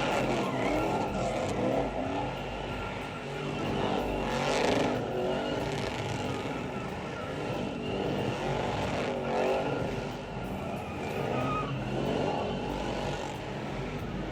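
Car engines revving, rising and falling in pitch, with some tyre squeal.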